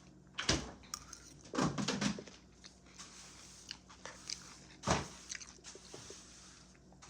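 Close-miked chewing and biting of chicken salad, with louder bites about half a second in, around two seconds and about five seconds in.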